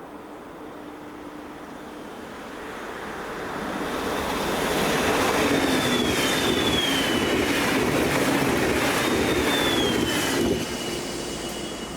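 A train passing close by. The rumble and wheel clatter build up over a few seconds, with high whining tones that glide down in pitch as it goes by. The noise drops off abruptly near the end.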